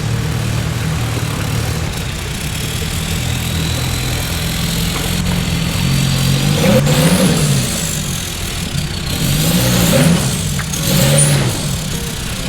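An off-road 4x4's engine running, then revved up and back down three times in the second half, as the truck works up an obstacle.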